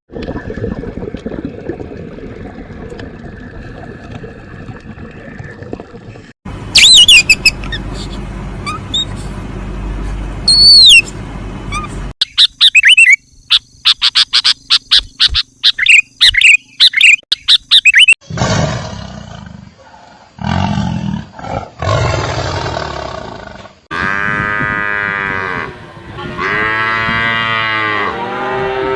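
A run of different animal calls, one clip after another: high chirping and whistling bird calls with fast clicking, then several low calls in separate bursts, then a long pitched call that rises and falls near the end.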